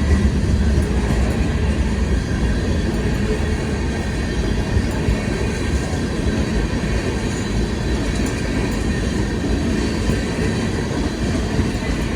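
CSX manifest freight train rolling past: a steady rumble of wheels on rail.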